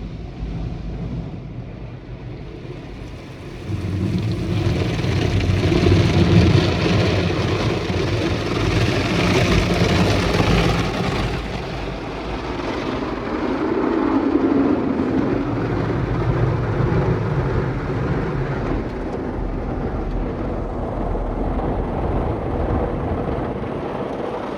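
PDQ ProTouch Tandem touchless car wash spraying the car with water jets over a steady low rumble of the machine, the spray getting much louder about three and a half seconds in.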